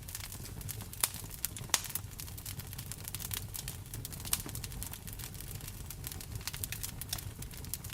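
Wood fire crackling in a fireplace: a steady stream of small sharp pops and snaps over a low steady rumble, with two louder pops in the first two seconds.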